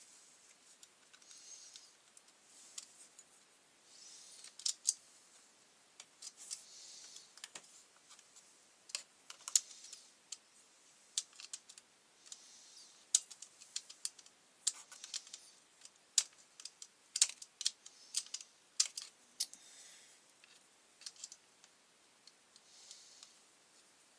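Hand tools and plastic parts being handled while a brush cutter is taken apart: a run of sharp clicks and light knocks with soft rustling between them, busiest in the middle and thinning out near the end.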